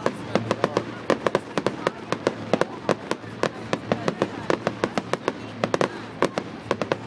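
Fireworks going off in quick, uneven succession: many sharp bangs and crackles, several a second, over music.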